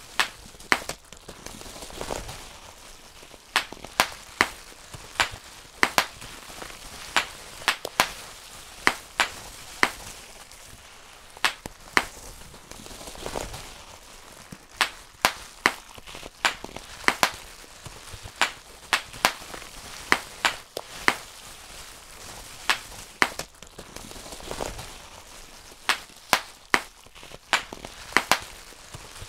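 Bubble wrap being popped by hand, one bubble at a time. Sharp pops come at an irregular pace of roughly one or two a second, with the plastic crinkling between them.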